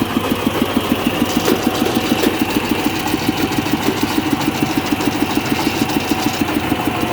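Tractor engine running steadily with a rapid, even pulse.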